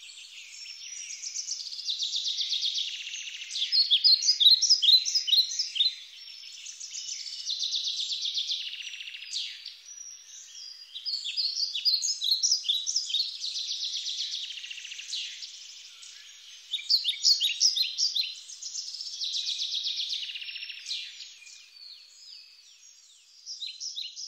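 Birds singing: bouts of quick, high chirping notes and buzzy trills every few seconds, fading toward the end.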